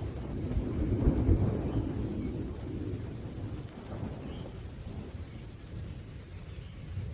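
Rolling thunder rumbling low and deep, loudest about a second in, then slowly dying away under steady rain.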